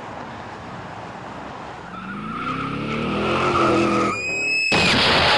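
Car engine rising in pitch over road noise, with a tire squeal building, then a sudden loud crash of impact near the end.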